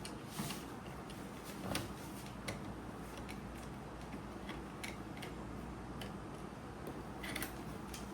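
A few light, irregular clicks and taps over a steady low background hum.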